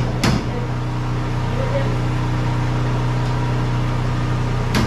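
Steady low mechanical hum, with a sharp knock shortly after the start and another near the end.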